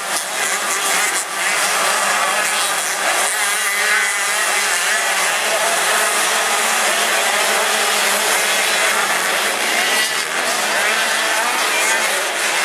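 85 cc two-stroke motocross bike engines revving hard, their pitch rising and falling with the throttle.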